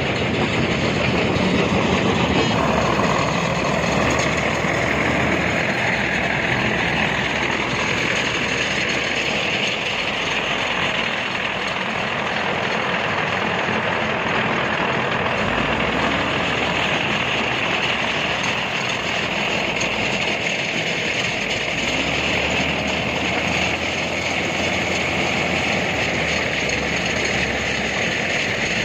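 Heavy construction machinery running: a steady, loud mechanical din with no distinct strokes or impacts.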